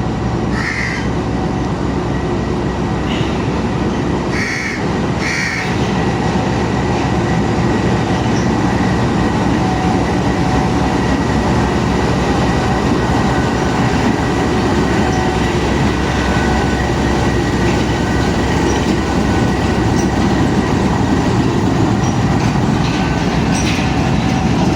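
A departing passenger train, hauled by a GEU-20 diesel-electric locomotive, rolls past with a steady, loud running noise of engine and wheels on rail.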